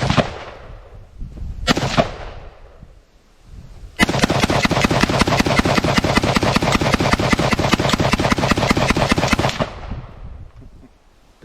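Two single gunshots a couple of seconds apart, then a long string of very rapid gunfire lasting about six seconds, shot after shot with no break, that stops and fades off in echo.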